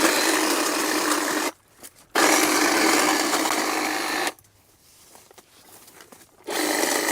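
Cordless electric power saw running in three bursts, with near silence between them and no engine idling: brush being cut back.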